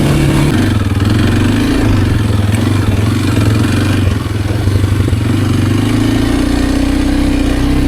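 Kawasaki KLX230R dirt bike's air-cooled single-cylinder four-stroke engine running under way, its note rising and falling with the throttle: it eases off about four seconds in, then builds again before dropping back near the end.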